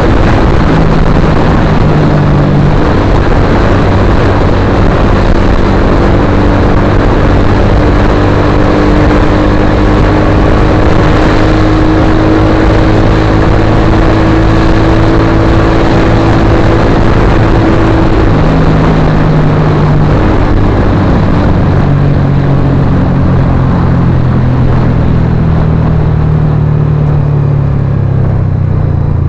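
Suzuki GSX-R150's single-cylinder engine running loud through an aftermarket Akrapovic-style slip-on exhaust. It holds a steady pitch for seconds at a time, rising slowly through the first half, then shifts up and down several times in the second half.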